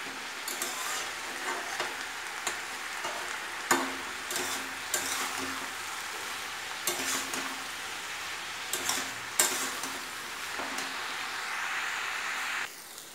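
Pieces of boiled raw jackfruit frying with turmeric in oil in a metal kadai, sizzling steadily, while a metal spatula stirs them and scrapes against the pan with a sharp clink every second or two. The sizzle drops off suddenly just before the end.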